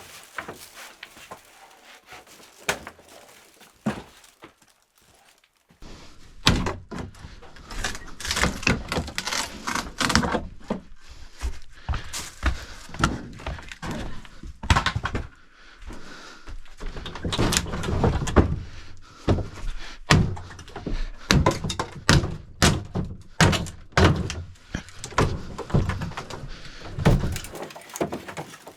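Repeated thuds, knocks and clattering as debris is pulled out and tossed during demolition and cleanup of a room. The first few seconds hold only a few knocks, then the impacts come thick and irregular from about six seconds in.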